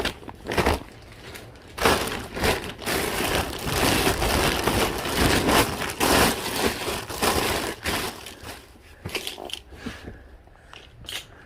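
Rustling and crinkling of bags and packaging as items are rummaged through and handled, busiest from about two seconds in until about eight seconds, then thinning out to a few light knocks.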